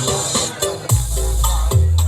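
Electronic dance music played loud through a large outdoor sound system stacked with subwoofers. A hissing sweep in the first second gives way to heavy, booming bass about a second in.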